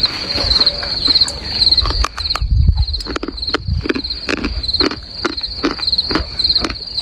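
A meerkat chewing with crisp crunches, about two or three a second, starting about two seconds in. A cricket chirps steadily throughout.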